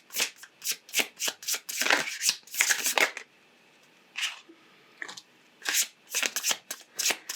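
Tarot cards being shuffled by hand: quick, even card slaps at about three to four a second. They pause briefly past the middle with a stray stroke or two, then start again.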